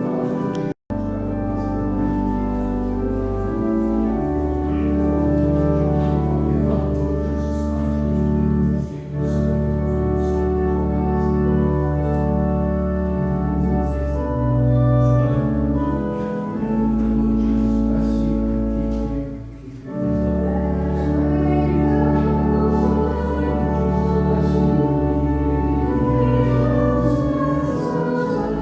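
Church organ playing slow, sustained chords over deep pedal bass notes, in phrases that pause briefly about a third and two-thirds of the way through. The sound cuts out for an instant about a second in.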